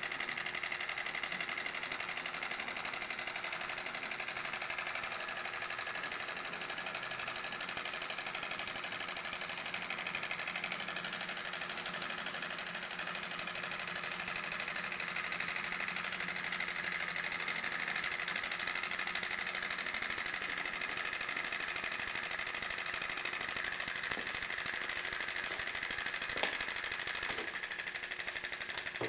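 Homemade solenoid engine, modelled on a Froment electric motor, running steadily: a fast, even mechanical clatter of its solenoids and moving parts, with a faint steady hum.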